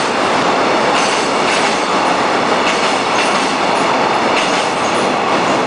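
Container flatcars of a freight train rolling past at speed: a loud steady rumble of steel wheels on rail, with clacks as wheelsets cross rail joints.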